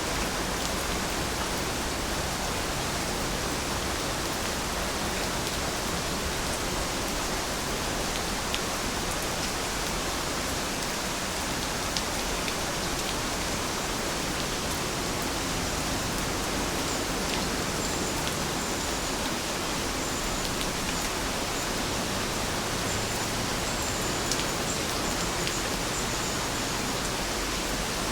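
Steady rainfall, an even hiss with scattered drop ticks. In the second half a run of short, high-pitched chirps repeats over it.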